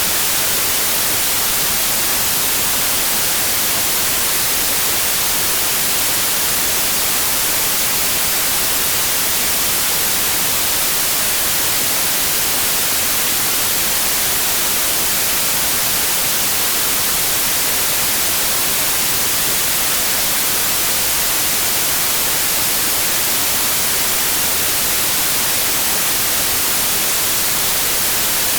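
Steady white noise: an even, unchanging hiss across all pitches, brightest in the treble.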